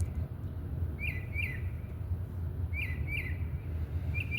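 Bird chirps in short, matching pairs of sharp notes every couple of seconds, ending with a quick run of three, over a steady low rumble. The man takes them for fake calls played from a speaker rather than a real bird.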